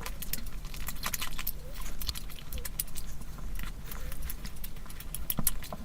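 Close-miked eating: wet chewing and lip-smacking, a quick, uneven run of crisp clicks and smacks.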